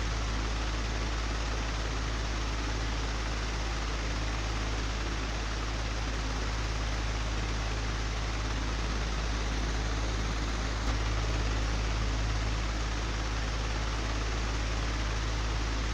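An old electric fan, described as broken, running steadily: a constant low hum under an even rush of air, with one brief click about eleven seconds in.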